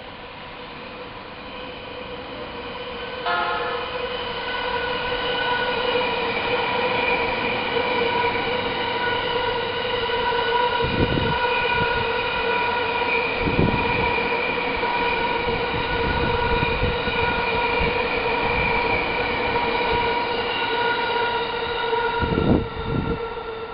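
JR East E231-series electric train, 15 cars, running past fairly slowly: a steady whine of several held tones over the rumble of wheels on rail. It grows louder early on as the train nears, with a few heavy thumps of wheels over rail joints, the loudest near the end.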